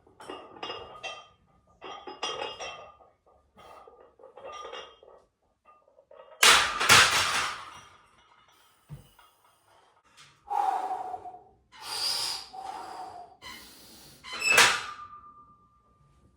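A run of knocks and clinks with several loud impacts. The last impact leaves a short ringing tone.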